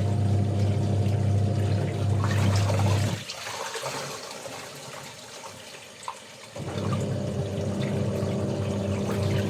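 Water running and splashing during laundry washing, with a steady electric motor hum that cuts off about three seconds in and starts again near the end.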